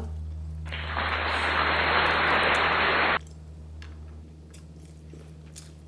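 A burst of static-like hiss, about two and a half seconds long, that starts and stops abruptly, with a steady low hum under it.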